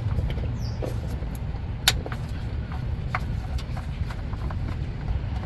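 Scattered metallic clicks and taps of tools and parts during work on a truck's transmission pan and filter, with one sharper click about two seconds in, over a steady low rumble.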